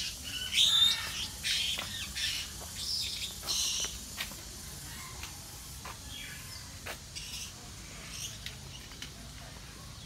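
Birds in aviaries calling: a run of high chirps and whistles over the first four seconds, then quieter with only occasional calls.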